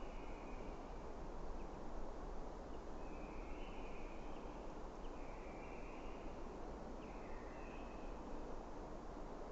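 Steady background hiss and low rumble, with faint bird calls repeating every second or two.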